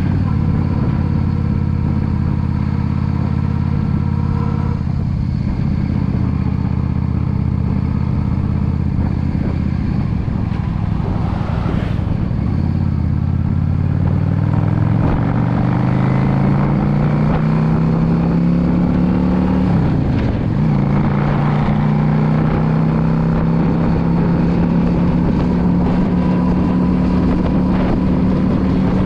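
Yamaha V Star 650 cruiser's air-cooled V-twin engine running at a steady cruise, then rising in pitch as the bike accelerates about halfway through. A brief drop and recovery about two-thirds in marks an upshift, after which it holds a steady, higher note.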